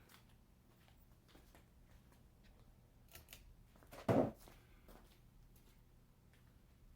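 Casablanca Delta II ceiling fan's Samsung K55 motor running on medium speed, a faint steady hum. A few light clicks come about three seconds in, then a short louder thump about a second later.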